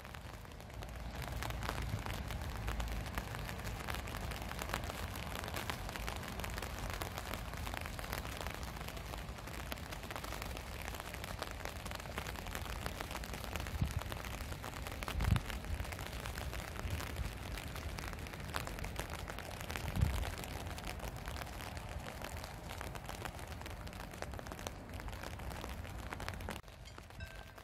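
Steady hiss of rain falling outdoors, with wind buffeting the microphone as a low rumble and a few louder gusts about halfway through.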